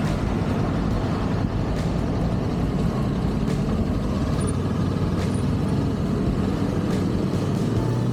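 Kawasaki Ninja 400's parallel-twin engine running at a steady speed through its stock exhaust, under heavy wind rumble on the microphone.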